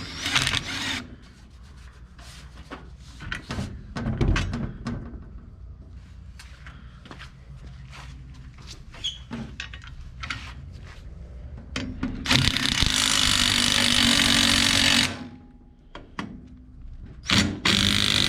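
Scattered clicks and knocks of hardware being handled, then a power drill running steadily for about three seconds, stopping, and starting again near the end, likely driving the grille's mounting bolts.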